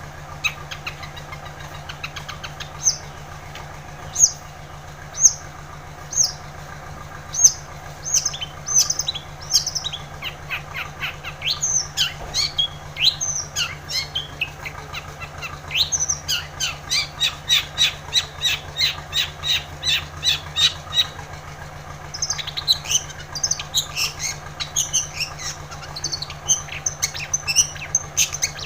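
Long-tailed shrike (cendet) singing: a varied string of sharp, high chirps and squawks. It starts with spaced single calls, then runs into rapid bursts of quick repeated notes through the middle. A steady low hum runs underneath.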